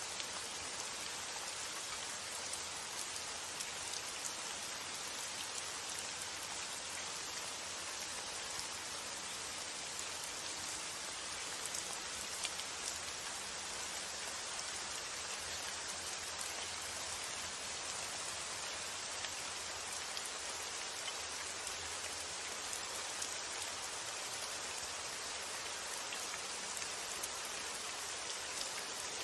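Steady rain falling, a constant hiss of countless small drop impacts, over a low, even rumble of wind.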